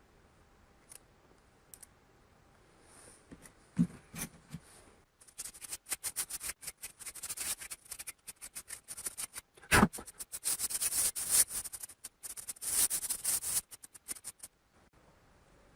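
Rapid scratching and clicking of small hard parts being worked by hand, with a couple of sharp knocks. It starts about a quarter of the way in and stops shortly before the end.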